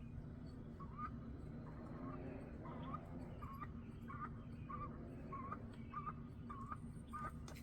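Primer bulb on a Stihl FS36 string trimmer's Walbro carburettor being pressed over and over, giving a faint short squeak about twice a second. The bulb pushes only air, not fuel, which points to a carburettor fault.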